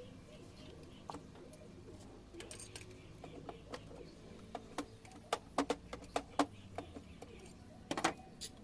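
A series of sharp clicks and taps, sparse at first and then a quick cluster of louder ones in the second half, over a low steady hum.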